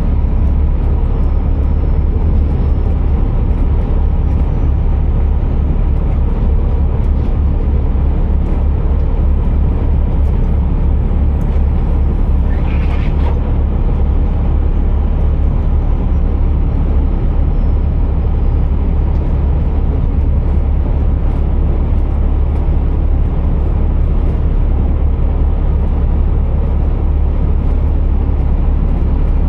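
Scania R480 truck driving, its engine and tyre and road noise making a steady, deep rumble. A brief higher-pitched sound comes about halfway through.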